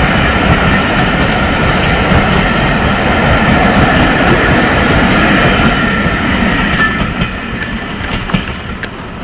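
A train's coaches rolling past at speed, a loud rumble with the wheels clicking over rail joints. It fades away over the last few seconds.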